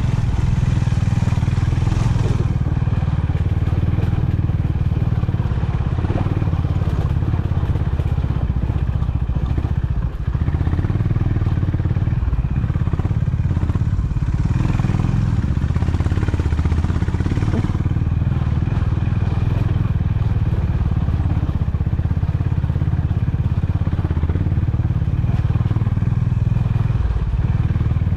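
Honda CB350 H'ness motorcycle's 348 cc air-cooled single-cylinder engine running steadily, with a short dip in level about ten seconds in.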